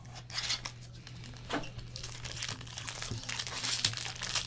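Crinkling and tearing of trading-card pack wrapping as the next pack is handled and opened, in irregular rustling strokes that thicken about halfway through.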